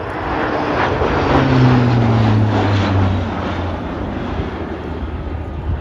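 A four-engined Lockheed Hercules turboprop flies past, its propeller drone falling in pitch as it passes, loudest about two seconds in, then fading.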